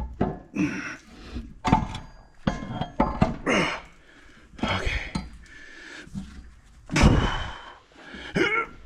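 Heavy steel crankshaft of a Minneapolis-Moline ZA tractor engine clunking and knocking against the engine block as it is worked out by hand, a string of separate thuds, some with a short metallic ring.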